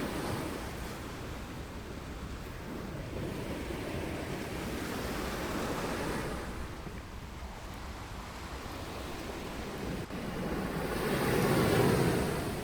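Ocean surf washing onto a beach, a steady rush of waves that swells and ebbs, with the loudest wave breaking near the end.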